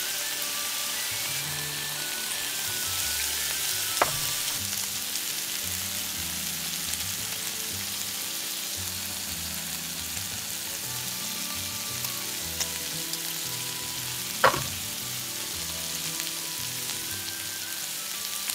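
Food sizzling steadily in a hot pan, with soft background music playing. Two sharp clicks sound, one about four seconds in and another in the last few seconds.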